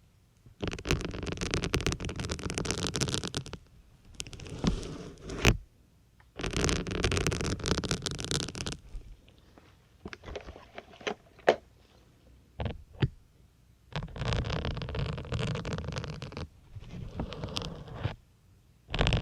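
Syringes pushed into a soft sponge two at a time, one on each side. Each push is a burst of dense rubbing noise lasting one to three seconds, with several sharp clicks in the quieter stretch in the middle.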